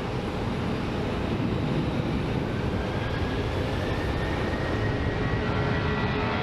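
Jet engines of a Southwest Airlines Boeing 737 at takeoff power, a steady rumbling noise with a faint whine that rises slowly through the second half.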